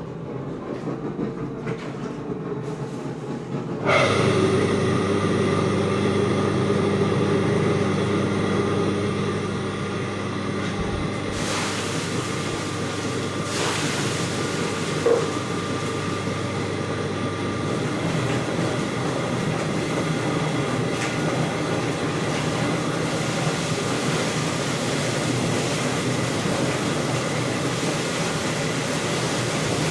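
Electric chicken feather-plucking machine running with a steady humming rumble and clatter. It becomes suddenly louder about four seconds in.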